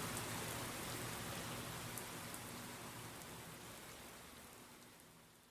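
Rain sound with scattered drop ticks, under faint low notes of music, fading steadily out.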